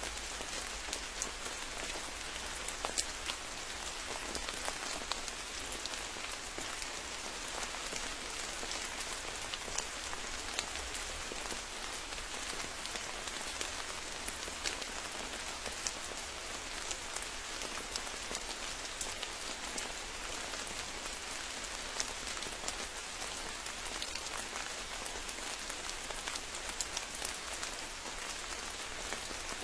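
Steady rain falling, an even hiss with many individual drops ticking and pattering on nearby surfaces.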